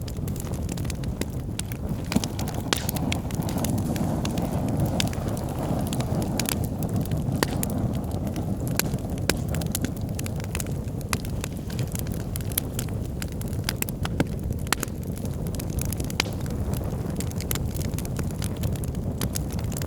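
Wood fire of burning logs in a fireplace: a steady low rumble of the flames with sharp, irregular crackles and pops throughout.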